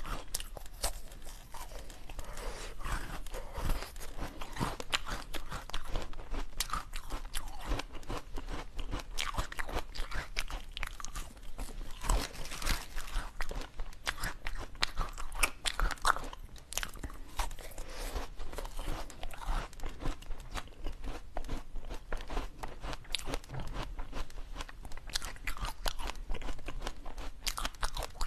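Close-miked crunching and chewing of frozen strawberries: a dense, continuous run of icy crunches between the teeth.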